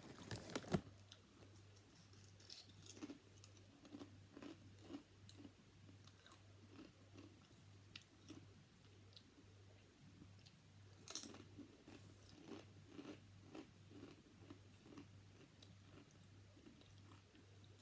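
Faint chewing and crunching of a crunchy snack, with a sharper crunch just under a second in and another about eleven seconds in. A faint steady low hum runs underneath.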